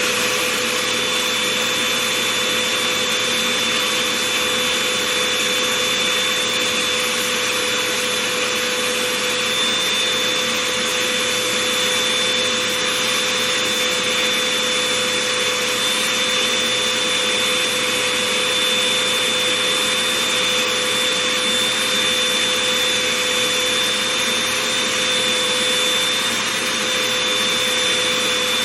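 Vacuum cleaner running steadily with a constant whine, its nozzle working over fuzzy slippers.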